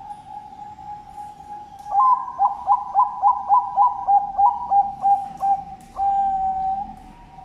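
A perkutut bangkok (zebra dove) cooing its full song. It opens with a low, steady purring coo, breaks into about a dozen quick, clipped notes at roughly three a second, and closes with one long held note.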